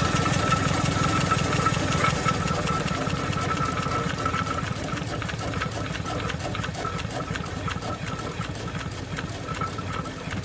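Twin-cylinder steam engine of a Lykamobile steam car running with a rapid, even beat, gradually getting quieter.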